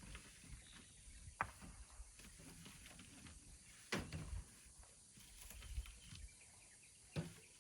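Faint scattered knocks and scrapes, with three sharper knocks a few seconds apart.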